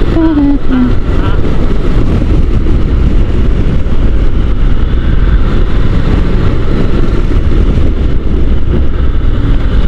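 Steady rush of riding wind on the microphone of a Honda NC750 DCT motorcycle in motion, with the engine running underneath.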